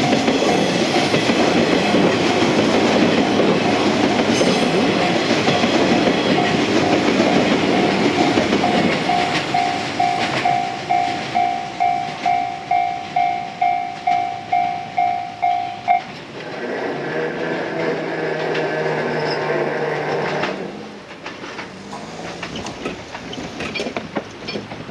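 Train running by on the rails, then a level-crossing warning bell ringing about twice a second that stops at about sixteen seconds in, followed by a steady pitched tone lasting a few seconds.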